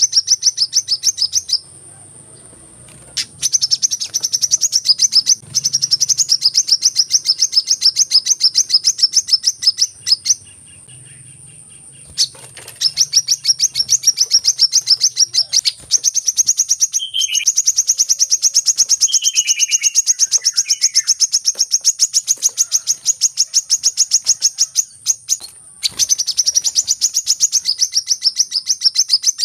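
Sunbird lure call: a rapid, high-pitched trill of evenly spaced chirps in long runs broken by short pauses. A few lower, falling chirps come in about two-thirds of the way through, and a thin steady high tone lies under it all.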